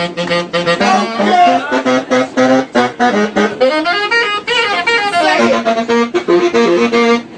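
Saxophone playing a fast jazz line of quick notes, with a run up and back down in the middle.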